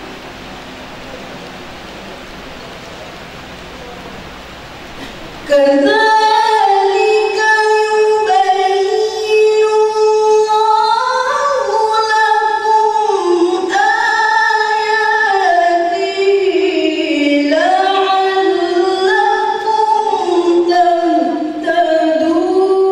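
Steady hiss, then about five and a half seconds in a woman's voice begins melodic Qur'an recitation (tilawah), with long held notes that glide and ornament up and down.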